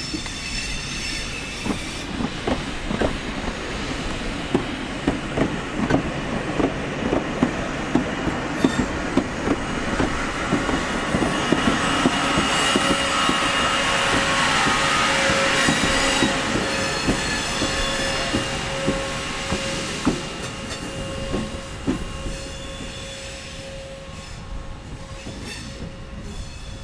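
Hydrogen-powered three-car train (ex-ScotRail Class 314 electric unit converted to Class 614) passing at low speed. Its wheels click over the rail joints, with a steady whine from the train. It gets louder as it goes by about halfway through, then fades as it moves away.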